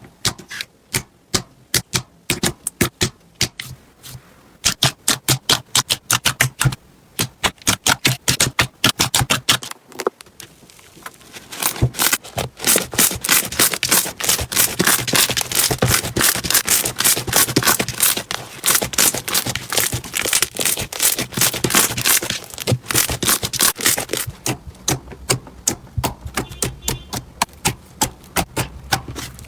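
Slime being squeezed and poked, making a quick run of sharp clicks and pops: a few at a time at first, dense and loud through the middle, thinning again near the end.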